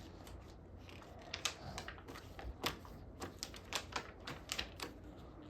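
An irregular run of light clicks and taps, a few to several a second, like buttons or keys being pressed rapidly.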